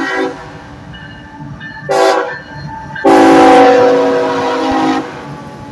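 Freight locomotive's multi-chime air horn: a held chord cuts off at the start, then a short blast about two seconds in and a louder two-second blast, sounded in answer to the railfans' request for a horn show. Under it runs the steady low rumble of the train.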